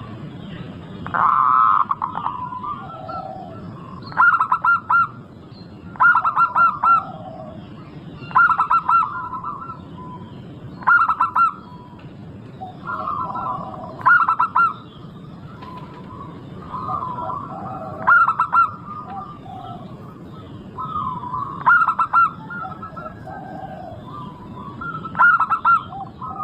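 Zebra dove (perkutut) singing its song, a short run of rapid staccato cooing notes repeated every two to four seconds, with softer bird calls in between.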